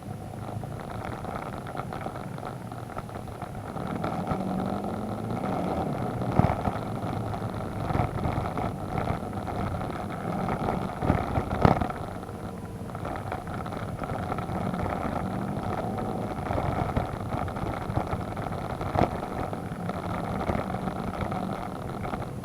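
Adventure motorcycle engine running at low revs on a muddy track, its pitch rising and falling with the throttle, with a few sharp knocks from the bike jolting over rough ground.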